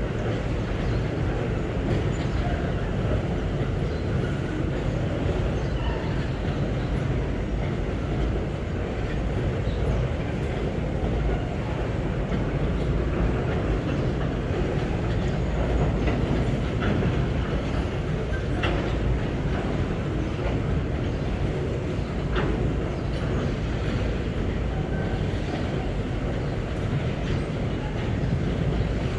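Empty GDT ore wagons of a long freight train rolling past with a steady rumble and the clack of wheels over the rail, with a few brief sharp metallic sounds along the way.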